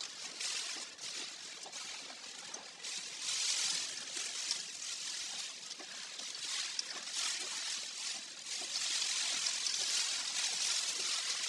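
Typhoon wind and rain: a rushing hiss that swells in gusts about three seconds in and again near the end, with a few faint ticks.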